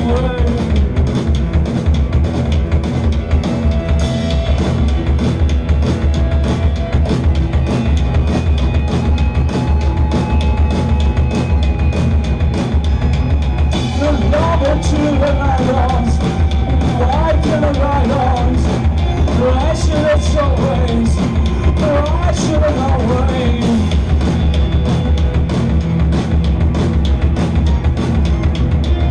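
Loud live rock band playing with drums, bass guitars and electric guitars, the drums keeping up a steady fast beat under a dense wall of sound. A wavering melodic line rises over the band through the middle of it.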